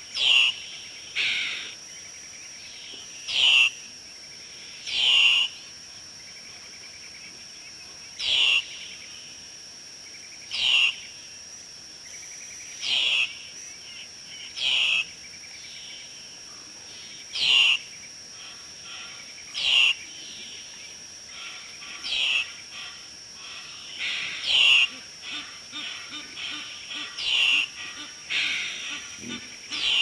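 Birds calling loudly about every two seconds, each call a short note that slides down in pitch. Near the end the calls come shorter and faster. A steady high-pitched whine runs underneath.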